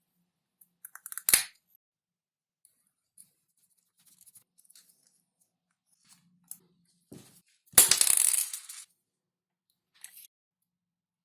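Light handling sounds of small objects: scattered soft clicks, a sharp tap about a second in, and a scraping rustle lasting about a second near the end.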